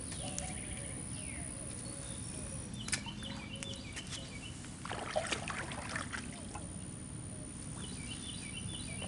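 Lakeside ambience: a songbird repeats a short chirping phrase a few times over a steady low background rumble, and a brief splash of water comes about five seconds in.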